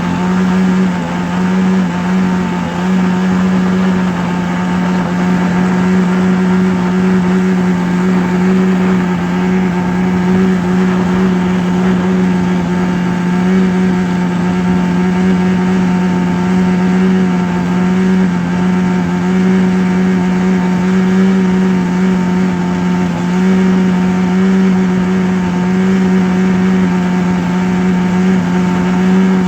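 A steady, low humming drone held at one pitch, with fainter overtones above it and no breaks or changes, played as a relaxation sound.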